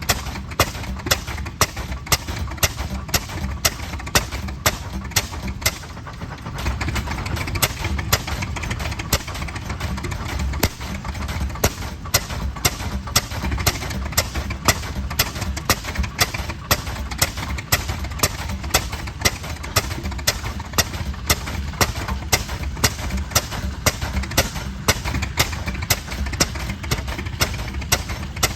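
Slow-turning antique tractor engine running, each exhaust stroke a sharp, evenly spaced bang about twice a second over a low rumble.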